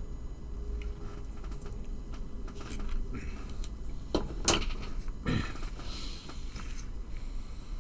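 Small model-kit parts being handled and fitted together: light clicks and rustles, with two sharper clicks about four seconds in, over a low steady hum.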